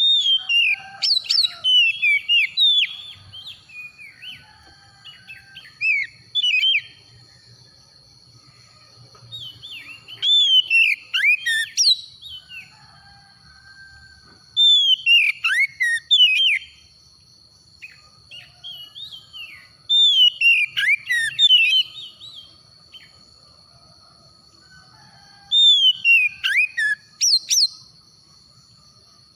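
Oriental magpie-robin singing: loud phrases of whistled notes that swoop and fall, each a second or two long, repeated every five seconds or so. A steady high thin tone runs beneath the song.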